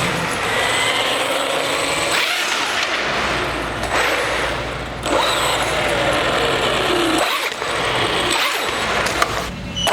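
Traxxas Hoss 4x4 VXL RC truck running. Its brushless motor and drivetrain whine rises in pitch as it speeds up and falls as it slows, with brief let-offs of the throttle.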